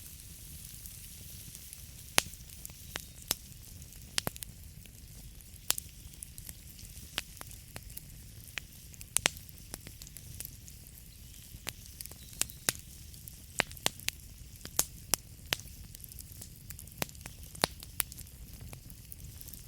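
Wood fire burning in a fireplace: the logs crackle and pop in irregular sharp snaps, a few every second, over a steady low rumble and hiss of the flames.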